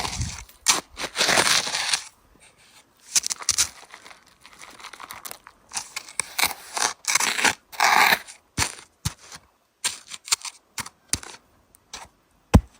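Irregular crunching, scraping and crinkling of hands at work as meat bait is pushed into a small hole and covered over, with a few sharp clicks near the end.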